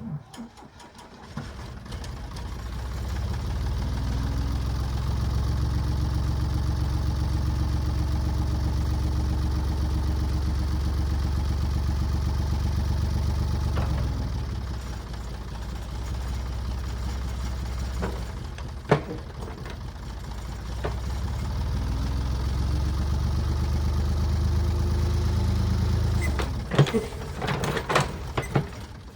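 Ford 555A backhoe's engine running, speeding up about three seconds in, holding at high revs, dropping back about fourteen seconds in, then speeding up again from about twenty-one seconds. Sharp metallic clanks sound once around nineteen seconds and several times near the end.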